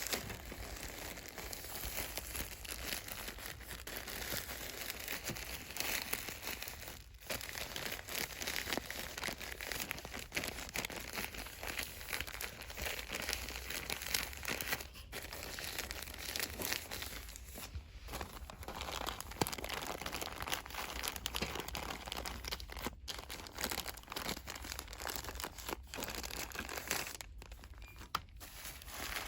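Fast, continuous crinkling and rustling of plastic cosmetic and soap packaging, handled close to the microphone, with a few short breaks.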